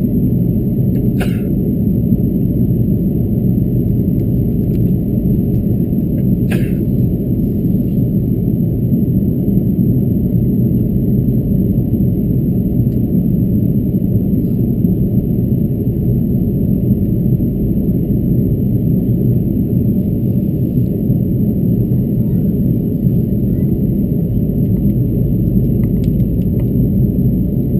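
Steady low cabin rumble of an Airbus A330-223 airliner in flight, engine and airflow noise heard from inside the cabin. Two short clicks come about a second and six and a half seconds in.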